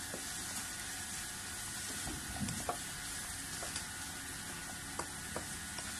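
Sliced vegetables sizzling in oil in a nonstick pan as a spatula stirs them, with a few light clicks of the spatula against the pan.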